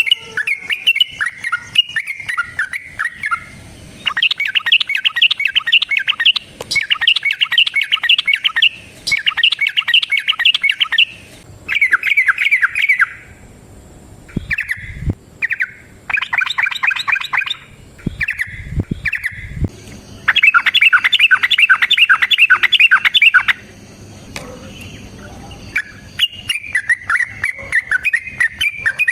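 Yellow-vented bulbul (trucukan) singing its long rapid 'ropel' fight song: loud phrases of fast chattering notes, each two to four seconds long, with short pauses between them. A few low knocks come about halfway through.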